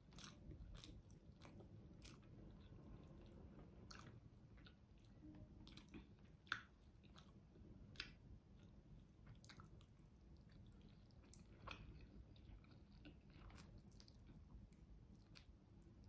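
Faint chewing of a mouthful of spaghetti carbonara, with scattered small wet clicks; the sharpest comes about six and a half seconds in.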